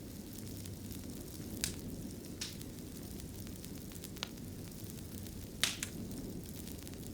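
Fireplace fire burning with a steady low rumble of flames and a few sharp crackling pops, the loudest a close pair about five and a half seconds in.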